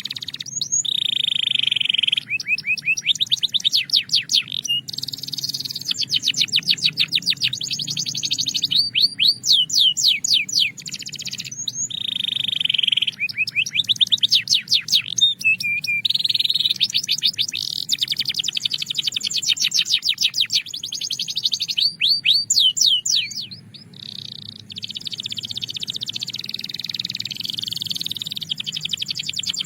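Belgian canary singing a long song of fast trills and rolls: rapid runs of repeated high notes, with a few steady buzzing notes between phrases and a short pause about two-thirds of the way through.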